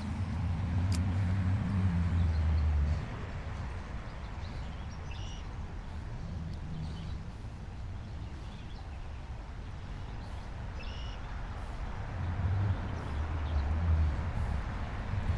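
Low rumble of a motor vehicle passing, twice: once in the first three seconds and again near the end, with a few short bird chirps in between.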